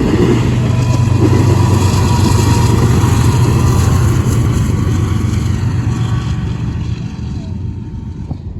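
Diesel locomotive at the rear of a train running past with a steady low engine drone and the rumble of the train, fading over the last few seconds as it moves away.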